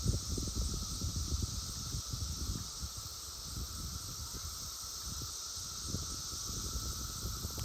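Chorus of male periodical cicadas, a steady high-pitched droning buzz that does not let up. Under it, low irregular rumbling on the microphone, strongest in the first few seconds.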